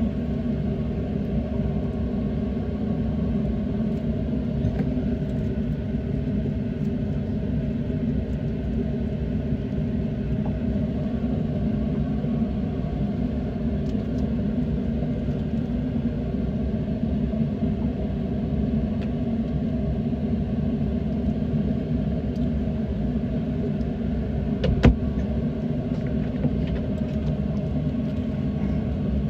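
Motorboat engine running steadily, a low rumble with water and hull noise mixed in, and a single sharp knock near the end.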